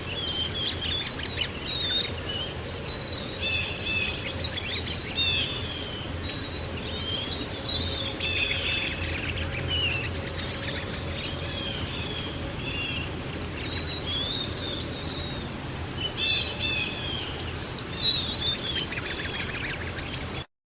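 Many songbirds chirping and trilling at once, a dense overlapping chorus, over a steady low background rush. The sound cuts off suddenly near the end.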